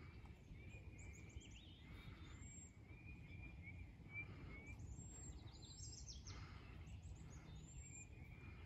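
Songbirds chirping faintly: a run of short repeated chirps through the first half and thin, high notes throughout, over a steady low background rumble.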